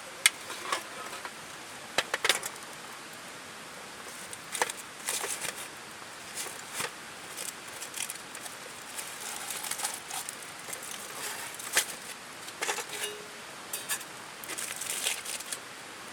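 Irregular sharp clicks and short rustling, crinkling noises of handling, scattered throughout over a steady hiss.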